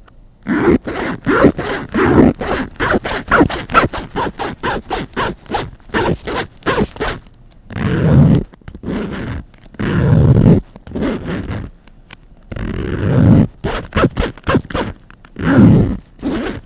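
Repeated rasping scrapes: quick strokes at about three or four a second at first, then after about seven seconds fewer, longer strokes with gaps between them.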